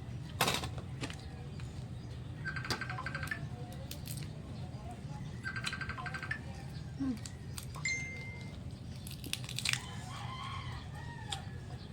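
Chewing and crunching of crispy deep-fried pork knuckle skin, with sharp clicks scattered through, the loudest about half a second in. A bird's short rapid trill sounds twice, and a low steady hum runs underneath.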